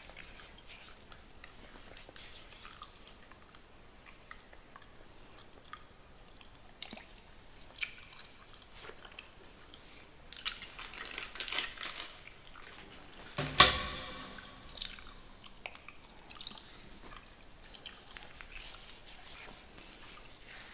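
Fingernails scratching through a beard close to the microphone: soft, crackly scratching that grows busier about ten seconds in. One sharp knock rings briefly just before fourteen seconds in, the loudest sound.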